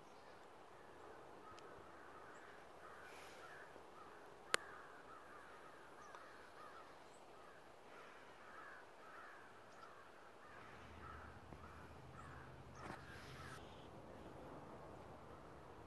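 Faint bird calls repeating in quiet outdoor ambience, with one sharp click about four and a half seconds in and a low hum coming in for a few seconds near the end.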